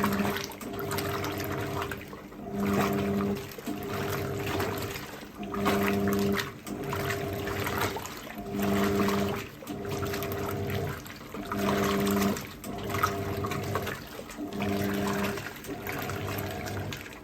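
Hoover 1400 top-loader washing machine agitating its load: the motor and PowerPulse agitator run in repeated strokes, a stronger stroke about every three seconds, with water sloshing around the wash bowl.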